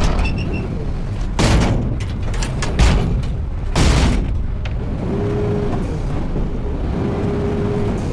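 Front-load garbage truck at work: a steady low diesel rumble broken by four loud sudden bursts in the first half. In the second half a steady mid-pitched tone sounds three times, each for about a second.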